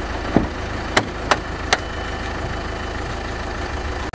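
Renault car engine idling steadily with a low hum, and four sharp clicks in the first two seconds as the driver opens the door and gets out.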